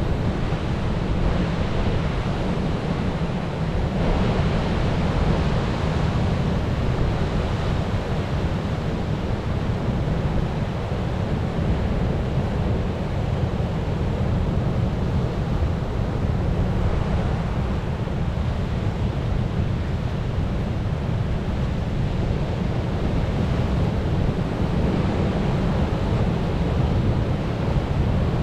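Ocean surf: a steady rush of waves with a deep low rumble, swelling slightly about four seconds in.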